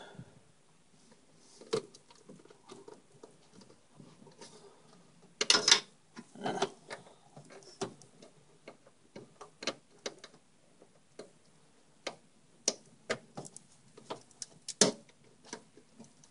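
Irregular clicks, taps and rustling of computer cables and plastic connectors being handled and plugged into a DVD drive, with a louder burst of rustling about five and a half seconds in.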